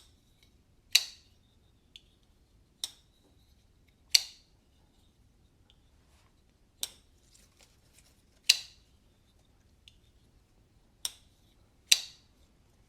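Liong Mah K.U.F. 3.0 folding knife, its pivot freshly fitted with Skiff ball bearings, being flicked open and dropped shut over and over. About eight sharp metallic clicks, each with a short ring, spaced one to two seconds apart.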